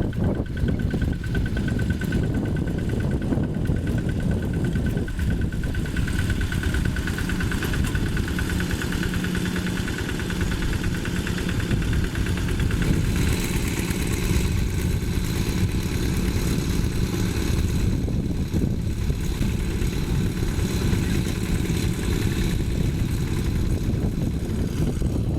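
Yanmar single-cylinder diesel engine of a Quick G1000 two-wheel hand tractor running steadily.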